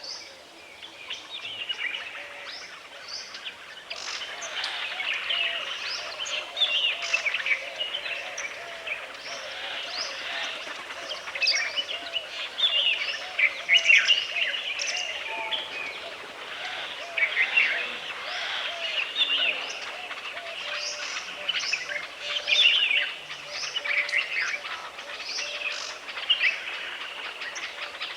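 Woodland bird chorus: many birds chirping and calling over one another in short high notes. A lower call repeats rapidly underneath through much of it, over a faint steady background hiss.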